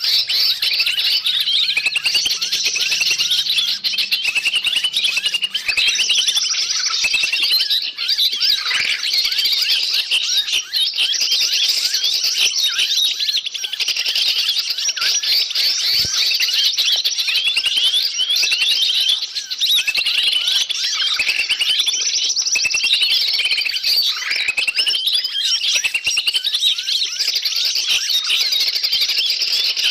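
Bird-lure recording: a dense, noisy din of many small birds chirping and screeching at once, with rapid short calls layered without a break. It is a frantic, agitated chorus meant to draw wild forest birds in.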